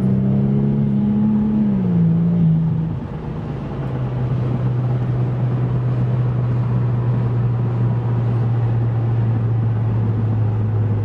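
Porsche 996 Turbo's twin-turbo flat-six through a Fabspeed exhaust, heard inside the cabin: it pulls at higher revs under boost, then the pitch falls about two seconds in as the revs drop. It then settles into a steady low drone over wind noise.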